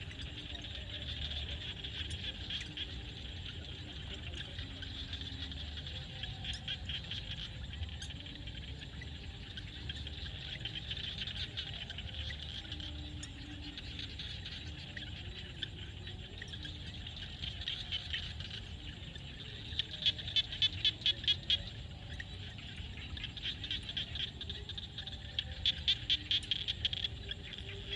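Frogs chorusing in a field, a continuous layered calling. Twice, about two-thirds in and again near the end, a louder call comes as a rapid run of pulses, about six a second.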